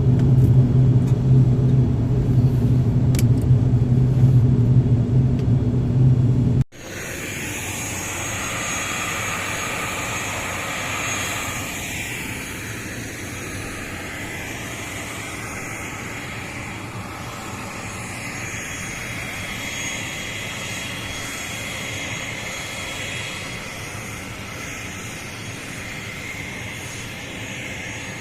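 ATR turboprop airliner cabin noise: a loud, steady low drone from the propellers and engines while the plane rolls after landing. About seven seconds in it cuts off abruptly to a quieter, steady hiss with a faint high whine.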